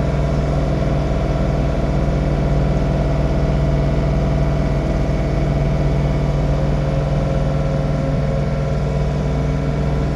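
A John Deere 3046R compact tractor's diesel engine running steadily at a constant speed, without revving up or down, while it drives a snowblower.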